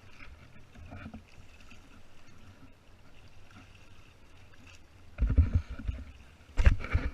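Water sloshing against the hull of a Hobie Tandem Island kayak under way, with two loud low thumps, one about five seconds in and another about a second and a half later.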